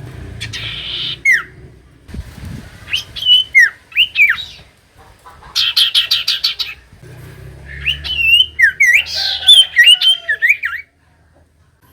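Common iora singing: loud whistled notes and sharply falling slurred calls, with a fast run of clipped chattering notes about six seconds in and a busy phrase of gliding whistles near the end.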